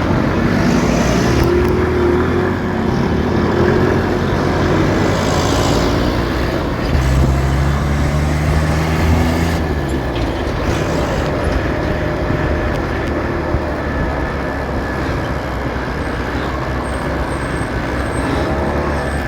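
City road traffic heard from a moving motorcycle: a steady mix of engine hum and road noise. A heavier vehicle's deep engine drone swells about seven seconds in and fades after about ten.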